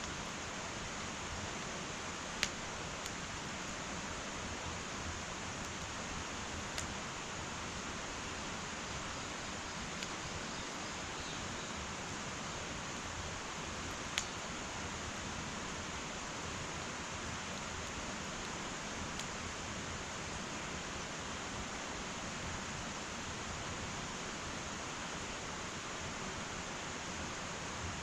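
Wood fire burning in an irori sunken hearth: a steady hiss with a few sharp, isolated crackles, the loudest about two and a half seconds in and again about fourteen seconds in.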